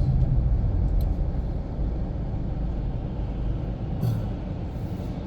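Steady low rumble of an Infiniti Q50 in motion heard from inside the cabin, engine and tyre noise on a snowy road, easing slightly in loudness, with a brief hiss about four seconds in.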